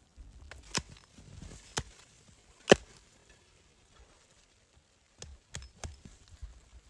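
A handful of sharp, irregular knocks or clicks, the loudest about two and three-quarter seconds in and three quicker ones near the end.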